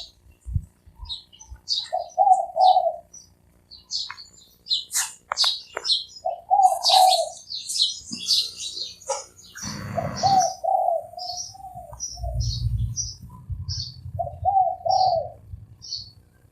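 A spotted dove cooing in short phrases of a few notes, about five times, with small birds chirping high and fast over it. A brief rustle or flutter comes a little before the middle.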